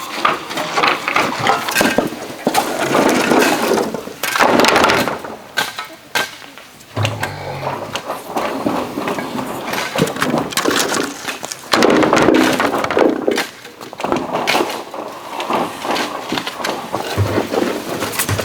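Bamboo being worked by hand: a busy run of knocks, cracks, scrapes and clatter from bamboo pieces.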